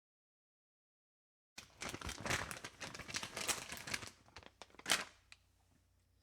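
Close crinkling, crackling rustle with many rapid clicks, lasting about two and a half seconds, then a single sharp click.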